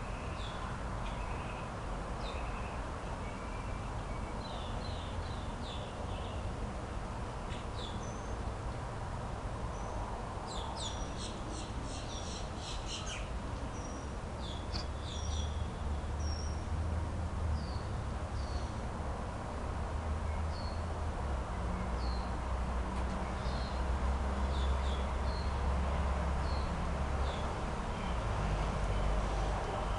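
Birds chirping and calling outdoors in short scattered notes, with a quick run of repeated notes around the middle. Underneath is a steady low rumble that grows somewhat louder in the second half.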